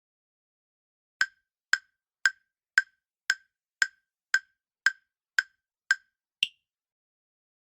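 Countdown-timer sound effect: ten sharp wood-block-like ticks, about two a second, then a final tick of a higher pitch.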